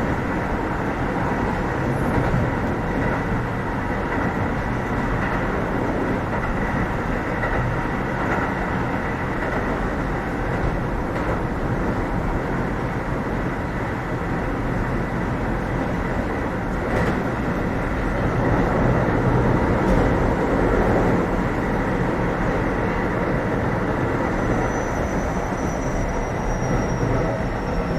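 Keio 7000 series electric commuter train running at speed, heard from inside the passenger car: a steady rumble of wheels on rail and car noise. A faint high tone slides slowly downward near the end.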